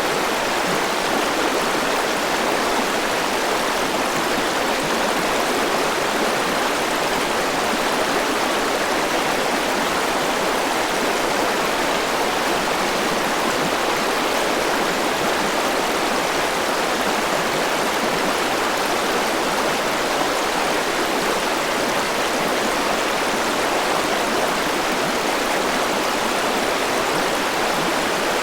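Forest river flowing: steady rushing water, even and unbroken.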